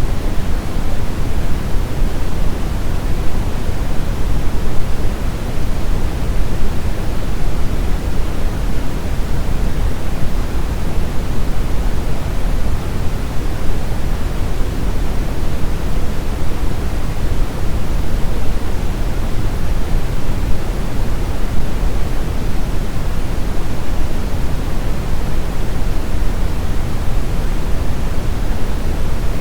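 Brown noise: a steady, unchanging hiss with its energy heaviest in the low end, deep and rumbling rather than bright.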